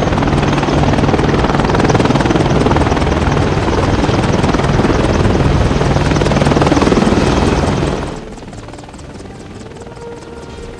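Helicopter running close by, a loud, dense rotor and engine noise with a steady low drone. About eight seconds in it drops suddenly to a much quieter, steady hum.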